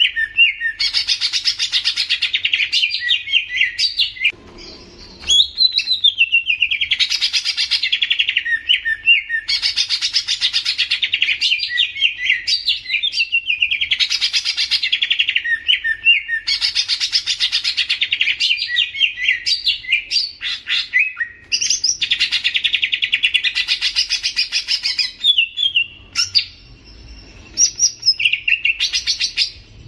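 A songbird singing loud, rapid trilled phrases about two seconds long, over and over with short gaps and quick whistled slurs between them. It pauses briefly twice.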